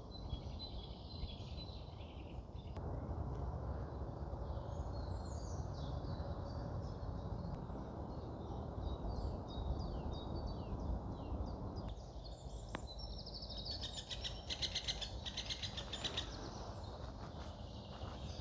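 Songbirds singing: one repeats a run of short falling notes, and another gives a fast trill about two-thirds of the way through. A steady low rushing noise runs underneath.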